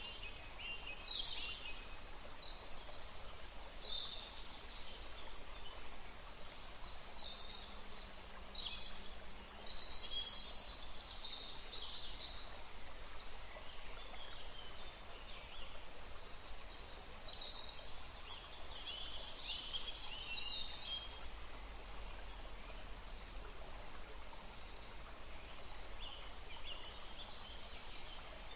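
Woodland ambience: several birds chirping and calling in short, overlapping phrases throughout, over a steady low background rumble.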